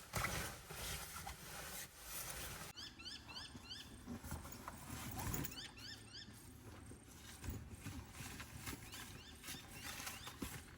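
Outdoor ambience with a bird calling in quick runs of four or five short rising chirps, about three seconds in and again near the middle, over scattered clicks and a low rumble.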